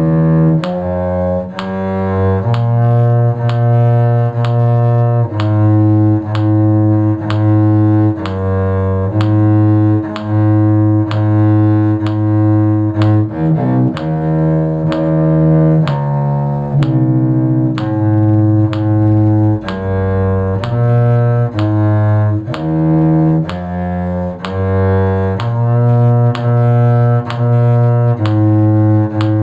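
A low bowed string instrument playing a slow bass line in the key of G: a steady run of separate, evenly played notes, several repeated, with a quick little run of notes about halfway through.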